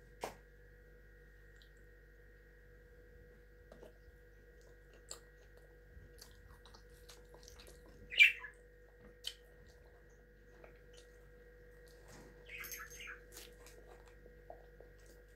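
Caged pet bird chirping: one loud short chirp about eight seconds in and a brief run of chirps near the end, over a quiet room with a faint steady hum and small scattered clicks.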